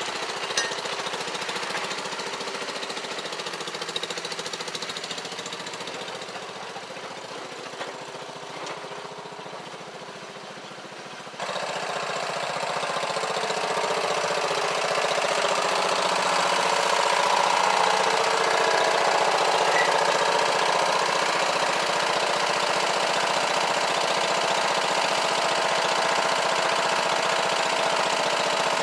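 Engine of a 1950s Garden All (Garden Master) garden tractor running steadily. It eases off a little, then jumps sharply louder about eleven seconds in and stays up.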